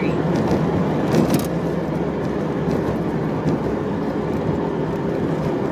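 KITT replica Pontiac Trans Am driving along: steady engine, road and wind noise heard from inside the car. A brief sharp noise about a second in.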